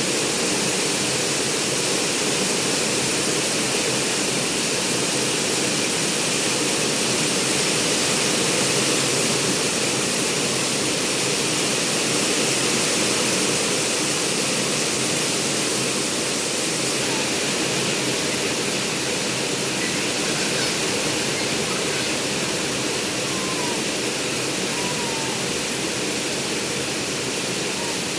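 Rain pouring down steadily, an even, unbroken hiss.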